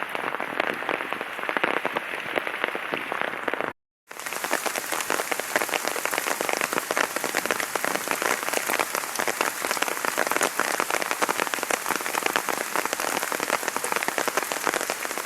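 Heavy rain falling, a dense, steady patter of drops. It cuts out briefly about four seconds in and then resumes with a brighter hiss.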